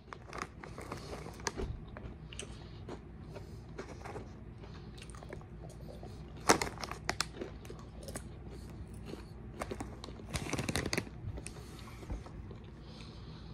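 Cereal-coated popcorn (Cocoa Pebbles) being chewed: irregular crunches and bites, with one louder crunch about halfway through and a denser run of crunching near the end.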